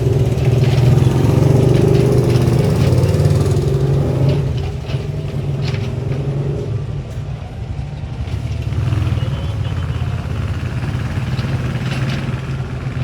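Excavator engine running steadily, with a few short knocks and clanks. It is a little louder for the first four seconds, then settles lower.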